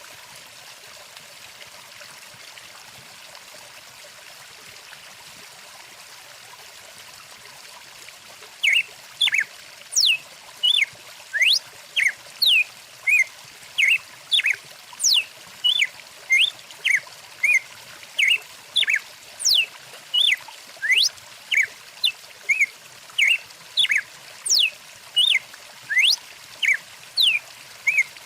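Steady rush of a flowing stream. About eight seconds in, a bird starts a fast, regular series of short whistled calls, a little more than one a second, each a quick rising or falling sweep, louder than the water.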